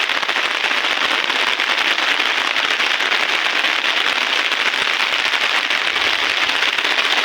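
Heavy rain falling on an umbrella close overhead: a steady, dense crackle of many rapid drop hits.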